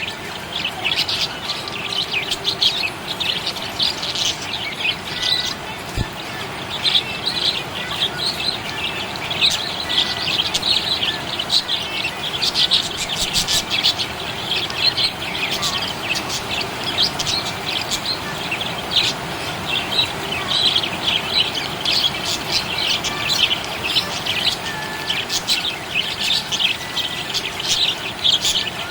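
Budgerigars chirping and chattering in a dense, unbroken stream of short, high chirps.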